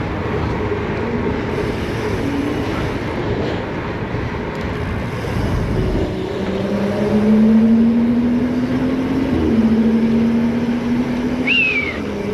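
City traffic and riding noise heard from a moving bicycle, with a steady engine hum from a nearby vehicle that rises slowly in pitch through the second half. A brief falling squeal comes near the end.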